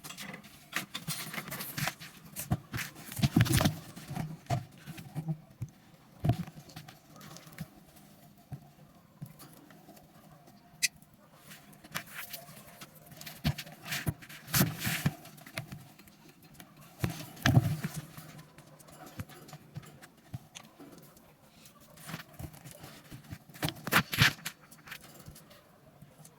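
Lovebirds moving about, making irregular rustling and scuffing noises, with one short high chirp near the middle.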